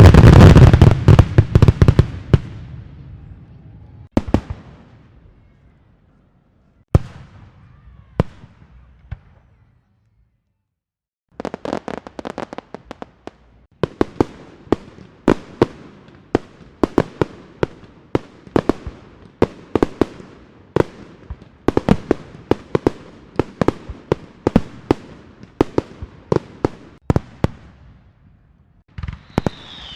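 Fireworks going off. First comes a dense volley of loud bangs with a rumbling tail, then a few single bangs and a short pause. After that comes a long, irregular run of sharp firecracker cracks, several a second, for most of the rest.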